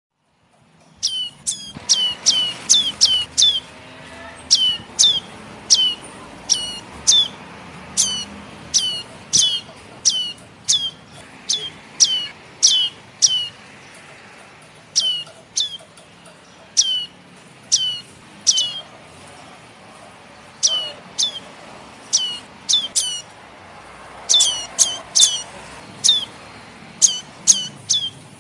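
Chick of a red-headed prenjak (prenjak atas) calling: short, sharp, high notes that each drop steeply in pitch, repeated in quick clusters of several with short pauses between. This is the young bird's call used as a lure for trapping prenjak.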